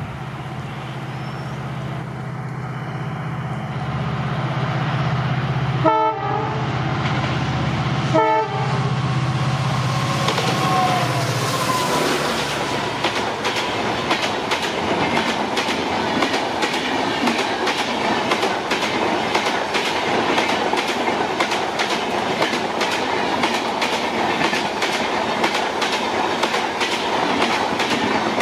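Diesel-hauled express passenger train approaching and passing close by: a steady engine hum, two short horn blasts about six and eight seconds in, then from about twelve seconds the coaches rush past with fast, even clickety-clack of wheels over rail joints.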